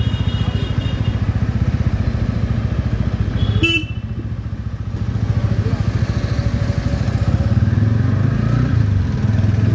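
TVS Ronin 225's single-cylinder engine running at low road speed in a slow ride, its firing pulses steady and even. The engine eases off for a moment about four seconds in, then pulls stronger again as the bike picks up pace near the end.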